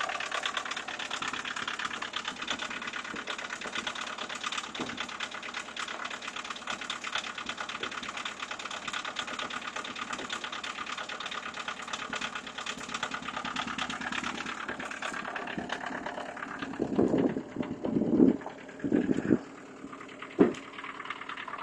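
1984 VW Jetta's 1.6-litre turbodiesel four-cylinder idling cold, with a fast, steady diesel clatter just after a cold start in freezing weather. A few louder short bursts come near the end.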